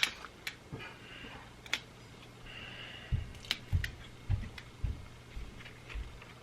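Small plastic items handled by hand: scattered light clicks and taps, with a few soft low thumps through the middle.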